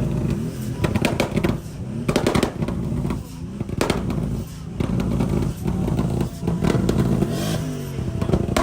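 Car engines revving up and down, with several sharp cracks like exhaust pops, and voices in the background.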